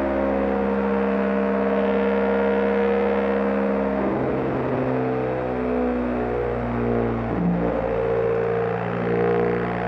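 Background music: a distorted electric guitar holding notes that change pitch in steps.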